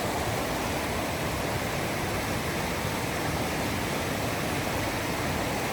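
Steady rush of cascading water from a nearby waterfall.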